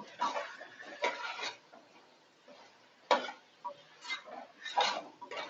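A spoon stirring and scraping chicken through fried masala in a cooking pot, in uneven strokes, with one sharp knock of the spoon on the pot about three seconds in.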